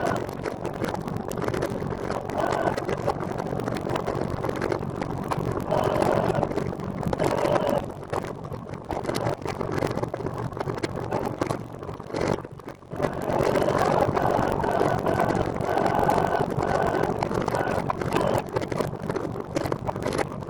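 Wind and road noise from riding a recumbent trike, a steady rushing noise that swells and fades, dipping briefly about twelve seconds in.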